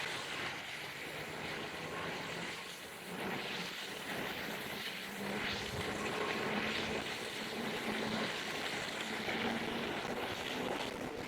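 Jansno X70 electric bike being ridden on a soft dirt road. Its motor gives a faint whine that comes in about five seconds in and rises slowly in pitch, over a steady hiss.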